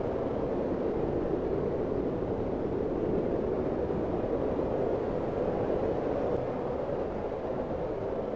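Steady, low blizzard wind blowing hard with a dull rush and no gusts standing out.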